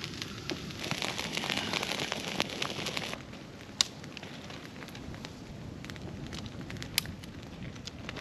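Campfire burning an old Christmas tree, crackling and hissing densely with many small pops. About three seconds in, the sound drops abruptly to a quieter crackle with a few single sharp pops.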